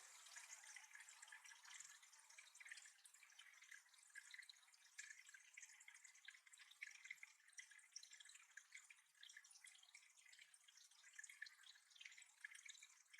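Faint, steady dripping and trickling of water into a small backyard bird pond.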